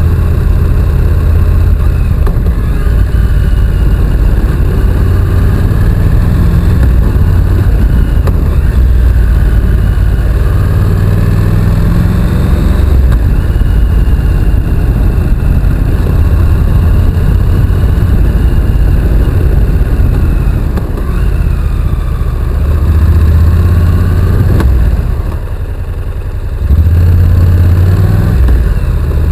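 Honda NC750X motorcycle's parallel-twin engine running steadily under way. About twenty-five seconds in it eases off for a second or two, then pulls loud again.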